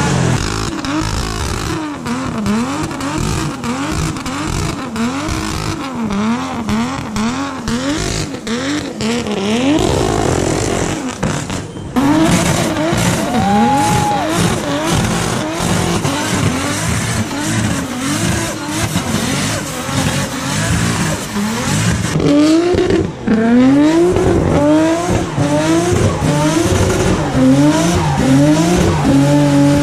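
A 2JZ inline-six in a modified drift car revved over and over, its pitch climbing and falling about once a second. After a break, more modified cars rev hard with tyre screech as one does a smoky burnout.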